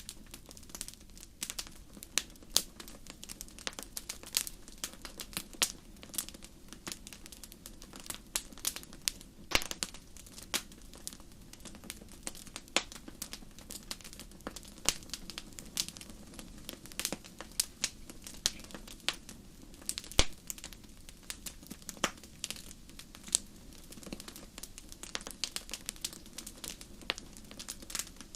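Wood campfire crackling: irregular sharp pops and snaps, a few louder ones, over a steady low rumble of the burning fire.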